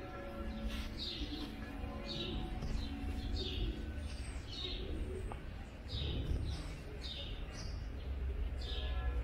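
A bird calling over and over, short chirps that fall in pitch, about one a second, above a low steady background rumble.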